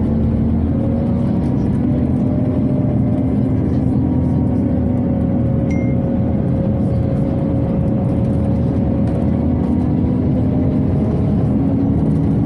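Inside a Scania OmniCity city bus under way: steady engine drone and road noise, with the ventilation blowing and the engine note rising and falling gently. A brief high beep sounds about six seconds in.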